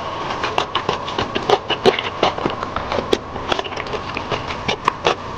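A person chewing a mouthful of food with closed lips, close to a clip-on microphone: a quick, irregular run of wet clicks and smacks, several a second.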